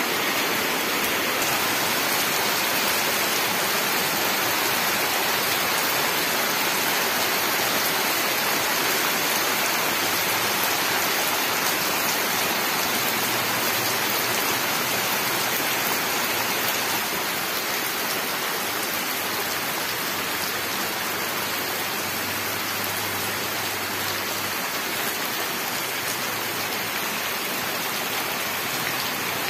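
Steady rain falling on leaves and on puddles on a muddy dirt path, a dense even hiss that turns slightly quieter about halfway through.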